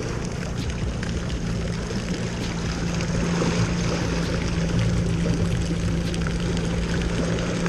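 Jet ski engine running at a steady speed, one unchanging hum, under a constant rush of water and wind.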